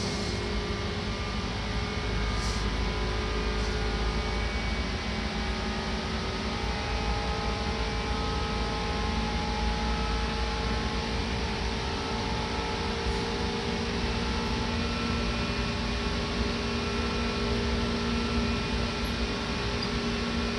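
Running noise inside a Seibu Red Arrow limited express electric train at speed: a steady rumble from wheels and track, with several faint steady motor tones over it.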